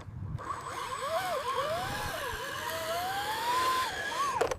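Whine of a radio-controlled construction model's small electric motor, its pitch sliding up and down as the throttle changes, then climbing steadily before dropping near the end.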